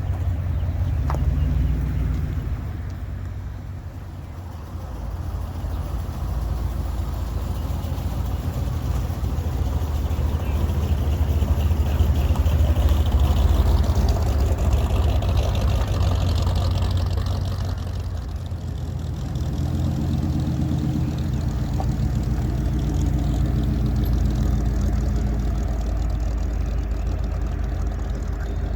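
Car engines running at low speed as vehicles roll past, a deep rumble that swells and fades as cars come and go.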